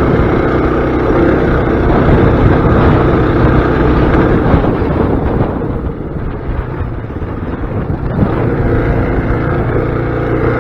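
Mini bike's small engine running hard to fling caked mud off the bike. It eases off about six seconds in and picks up again around eight seconds.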